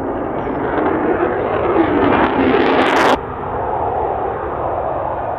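Military jet aircraft engine noise, loud and building in strength and brightness, then cut off abruptly a little past halfway and replaced by a steadier, duller jet noise.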